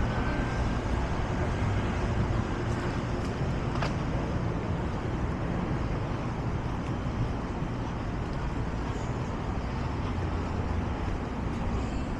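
Steady road traffic noise, with one short click about four seconds in.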